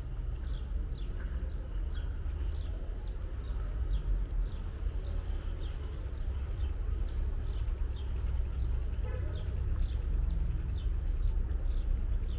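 A bird chirping over and over, short falling high notes at about three a second, over a steady low rumble.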